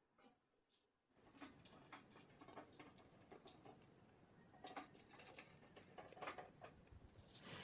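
Near silence with faint, irregular light clicks and rustling that start about a second in.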